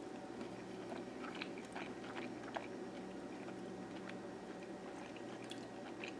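Faint chewing of a mouthful of crusty fried squirrel, small irregular clicks and crunches over a steady low hum.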